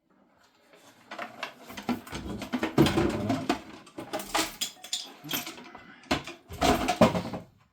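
Handling noise from an undersink boiler being worked on: irregular knocks, clicks and scraping against its casing, loudest in a cluster of knocks about seven seconds in.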